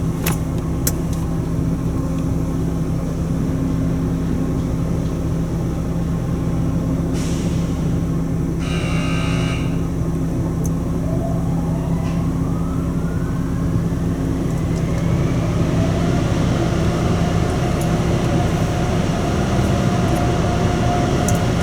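Automatic car wash machinery running with a steady loud drone. A short hiss comes partway through. About halfway, a motor winds up in a rising whine and settles into a steady higher hum, as the car ahead moves through the arches at the end of the wash.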